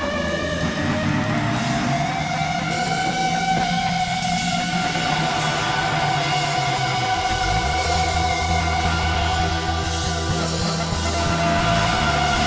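Rock music: a band playing guitar over drums, with sustained guitar notes and a bass line moving underneath.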